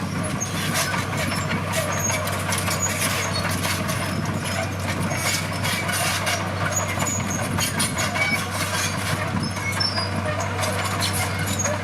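A heavy earthmoving machine's diesel engine running steadily under work, with irregular metallic knocks and rattles throughout.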